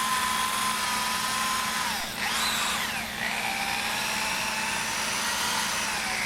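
Electric drill spinning a cloth buffing wheel against a lacquered drum shell to polish out the finish with swirl remover. It gives a steady whine that dips and wavers about two seconds in, then settles again.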